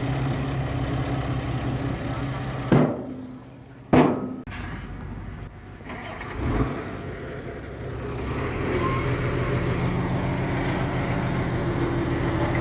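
Diesel engine of heavy earthmoving machinery running steadily, broken by two sharp knocks about three and four seconds in. A few quieter seconds follow before the engine sound comes back at full level.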